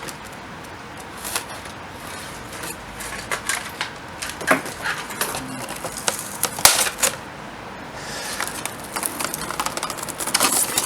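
Hands handling a cardboard box and its packaging: scattered clicks, taps and rustles, getting busier near the end.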